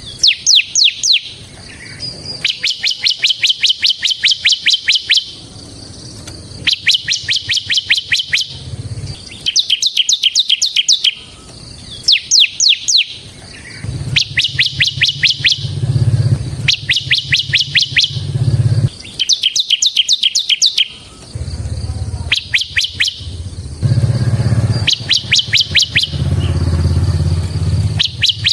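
Bar-winged prinia (ciblek) singing in repeated bursts of fast, high, rattling chips, each phrase lasting one to three seconds with short pauses between, about eleven phrases in all. A low hum runs underneath through much of the second half.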